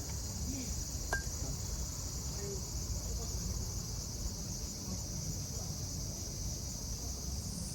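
Summer cicadas droning steadily in a high, even band, over a low rumble; one light click about a second in.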